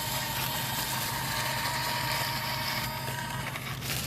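Radio-controlled excavator and dump truck models running: a steady mechanical hum with a thin high whine that stops about three and a half seconds in.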